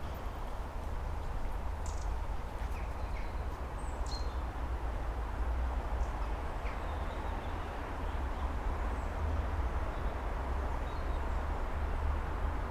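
Wind rumbling steadily on the microphone outdoors, with a few faint bird chirps about two and four seconds in.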